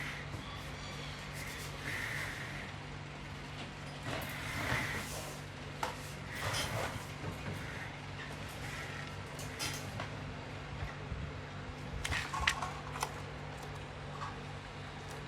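Irregular scraping strokes and light clicks and knocks as a clock part is rubbed down and test-fitted so the movement sits lower without touching, over a steady low hum.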